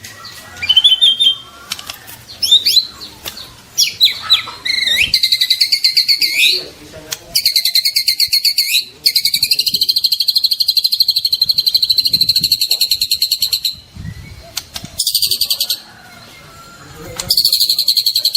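White-rumped shama (murai batu) singing: a few whistled, sliding notes at first, then long, rapid trills of fast-repeated notes, each held for several seconds with short breaks between them.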